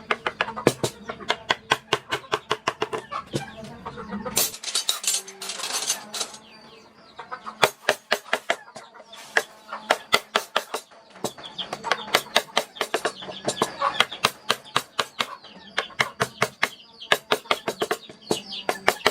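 Wood-carving chisel being struck with a mallet in quick repeated taps, about four or five a second, with brief pauses. About four seconds in there is a short scraping rush.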